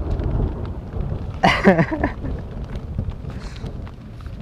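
Rain on a tent, with a low rumble in the first second and a short voice sound about a second and a half in.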